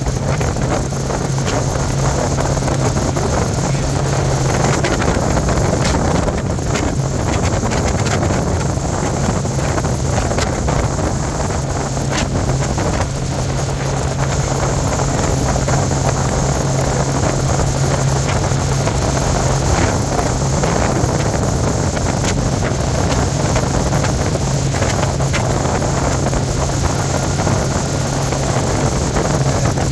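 Bayliner motorboat's engine running with a steady low hum while under way, with wind buffeting the microphone.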